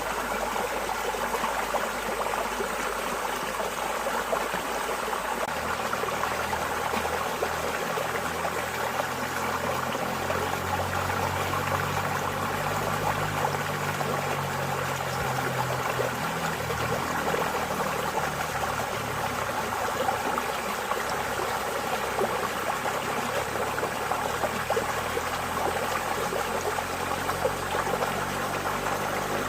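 Water in a stream flowing steadily with an even rushing sound, and a faint low rumble shifting underneath from about six seconds in.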